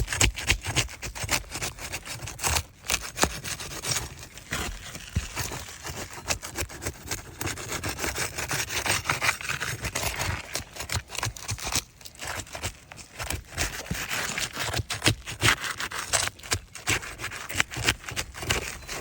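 Flat steel pry bar scraping and working under old asphalt 3-tab shingles to break them loose: irregular scraping strokes with a few brief pauses.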